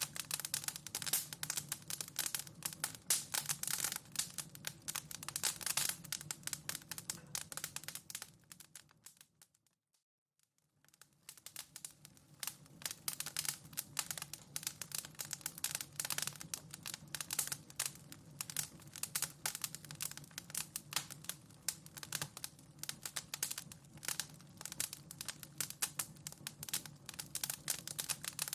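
Wood fire in a fireplace crackling, a dense run of sharp snaps and pops over a low steady hum. About a third of the way in the crackling fades out to near silence for about a second and fades back in, the seam where the looped recording restarts.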